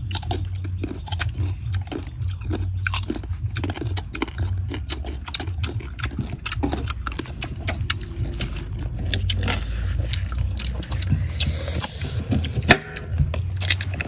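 Biting and chewing crunchy sour fruit: many quick crisp crunches in an irregular run, with one sharper crunch near the end, over a steady low hum.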